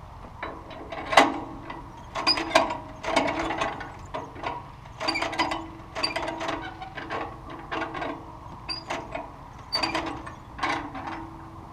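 Irregular metallic clanks and rattles, a few strokes a second in uneven bursts, some with a short ringing tone.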